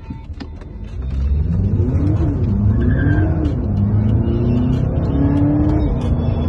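Volkswagen Passat 2.0 TDI twin-turbo four-cylinder diesel accelerating hard under full load. The engine note climbs in pitch and falls back at three gear changes, with each gear held longer than the one before.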